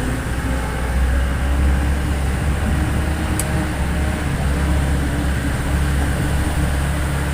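Vehicle engine running with a steady low rumble, and a faint tick or two.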